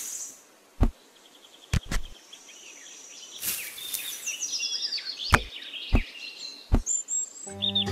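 Small birds chirping in quick repeated calls, with several sharp clicks and knocks scattered through. Music comes in near the end.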